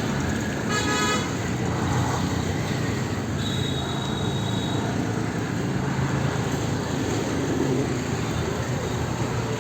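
Busy Indian street traffic: a steady din of engines and tyres, with a short car horn honk about a second in and a longer, high, thin horn tone from about three and a half to five seconds.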